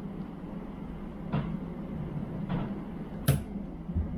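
Small screwdriver clicking against a steel circlip in a power steering pump housing as the clip is pried and stretched. A few light clicks come first, then a sharp metallic click about three seconds in and a soft thump near the end, over a steady low hum.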